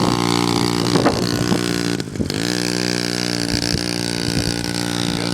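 Small dirt bike engine running steadily. About two seconds in it briefly drops away, then the pitch rises as the throttle opens again and holds steady.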